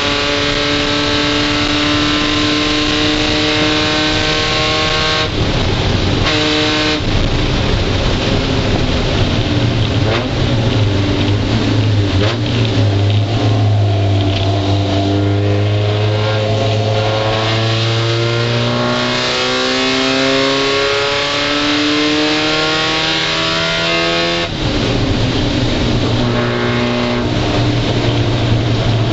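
Mazda Miata's four-cylinder race engine heard from inside the cabin, held under load and climbing slowly in pitch, with a break in the engine note about five seconds in and again near the end, under a steady hiss of road and rain-spray noise.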